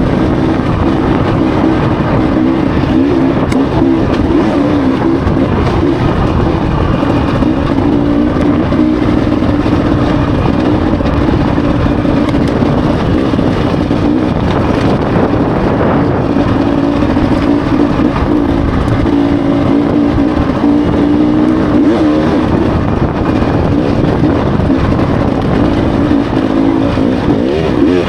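Dirt bike engine running steadily while riding, its pitch wavering a little up and down with the throttle, over a rough, continuous noise.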